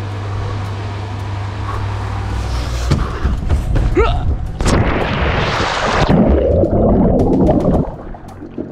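A person jumping into a swimming pool: a loud splash about five seconds in, then water churning for a couple of seconds before it dies down.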